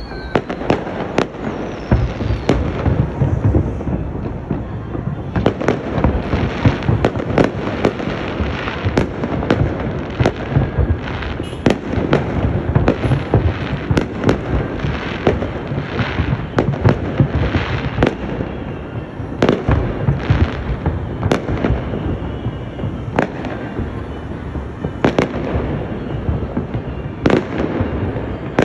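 Fireworks display: a continuous barrage of bangs and crackling, several bangs a second, with no pause.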